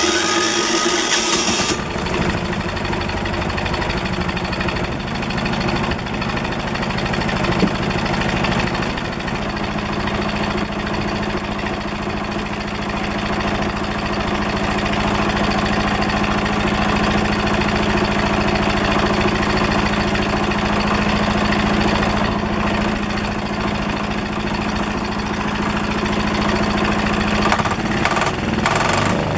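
10 hp single-cylinder diesel engine, a Yanmar L100 clone, on a cold start: cranked by its electric starter and catching within about two seconds, then running steadily through its stock muffler, settling into an even idle about ten seconds in. The running changes briefly near the end.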